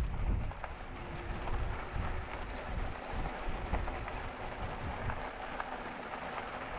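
E-bike riding along the trail: wind buffeting the microphone in a low rumble, over a steady crackle of the tyres rolling on the trail surface.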